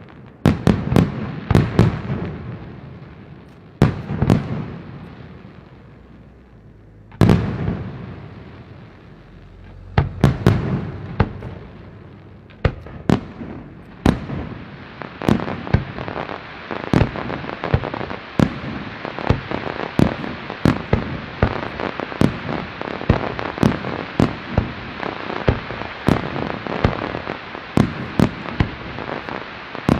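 Aerial fireworks display: shells bursting with sharp bangs, each trailing off in a long rumble, a few seconds apart at first. From about halfway a dense, rapid run of reports and crackle follows.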